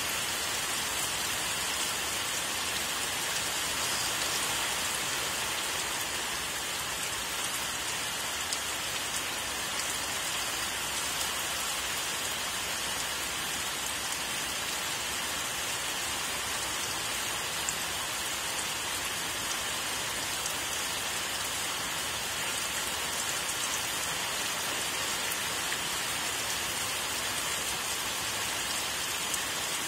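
Steady rain falling on leafy trees, an even hiss with no letup and a few sharper drop ticks standing out.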